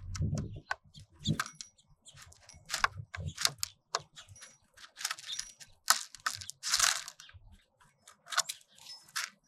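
Small birds feeding at a seed feeder: a run of irregular sharp clicks and taps from pecking and cracking seed close to the microphone, with a few faint short chirps.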